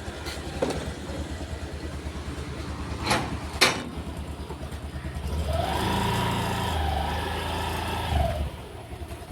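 Motorcycle engine idling with a steady low pulse, with two sharp clicks about three seconds in. About five seconds in it revs up, holds the higher note for a couple of seconds, then drops back to idle near the end.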